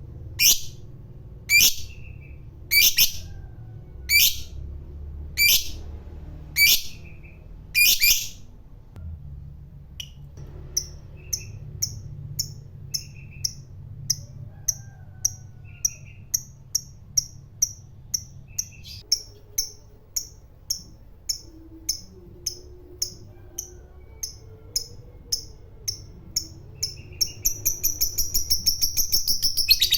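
Lovebird calling: loud, sharp single shrieks about once a second, then a long chattering run of short chirps that speeds up into a rapid continuous trill near the end, the long 'ngekek' chatter of a fighter lovebird.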